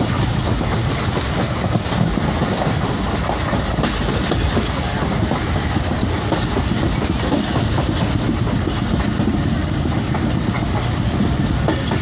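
Passenger train running, heard from inside a carriage: steady wheel-on-rail noise, constant in level throughout.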